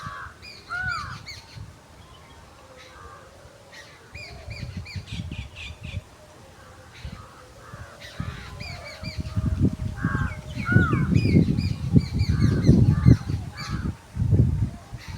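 Several birds calling outdoors: repeated short chirps and arched, crow-like calls throughout. A low rumbling noise comes and goes beneath them, loudest in the second half.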